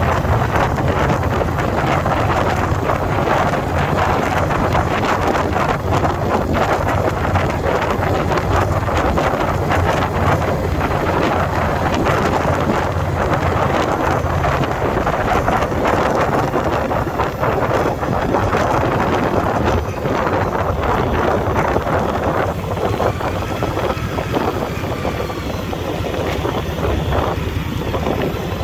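Wind rushing over the microphone on a moving 2021 Indian Scout Bobber Twenty, with the V-twin engine running underneath. The rush eases somewhat in the last few seconds.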